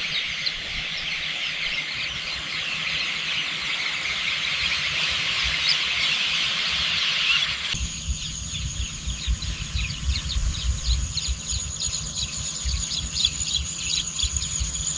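Countryside ambience: a dense chorus of insects and birds chirping. About eight seconds in, the sound changes abruptly to a steadier high insect drone with chirps over a low rumble.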